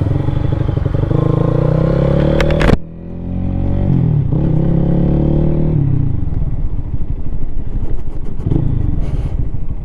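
Lifan KPM 200 motorcycle's single-cylinder engine accelerating through the gears. The engine note climbs, drops away suddenly at a gear change a little under three seconds in, climbs again, then settles to a steadier run.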